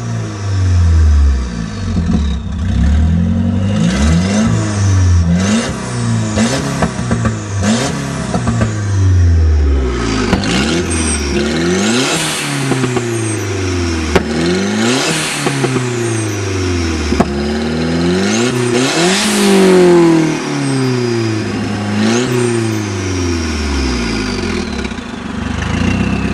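Nissan CA20ET turbocharged 2.0-litre four-cylinder engine revved repeatedly while standing, the revs climbing and dropping about every two seconds. A high whine rises and falls with each rev.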